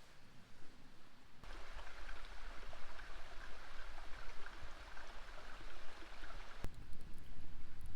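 Mountain stream flowing: a steady rush of water that starts abruptly about a second and a half in and cuts off abruptly near the end with a sharp click.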